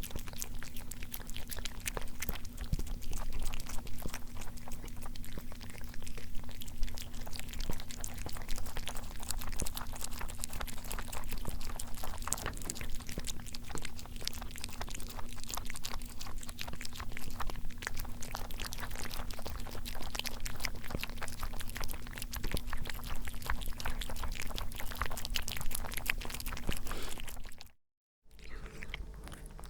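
Food being chewed and crunched, a dense run of irregular crackly clicks over a steady low hum. It cuts off abruptly near the end, and after a brief silence a different recording begins.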